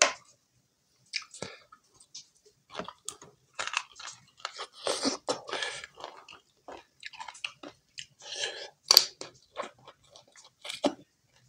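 Close-up mouth sounds of a man chewing a mouthful of chicken kebab and rice eaten by hand, in irregular bursts with short silent gaps between them. There is a sharper, louder click about nine seconds in.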